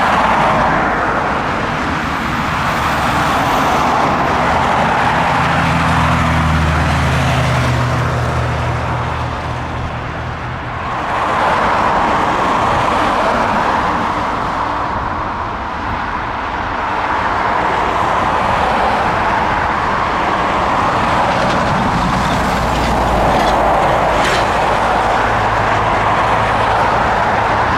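Boeing 757 jet engines roaring, the noise swelling and easing several times, with a low engine hum rising underneath about five to ten seconds in.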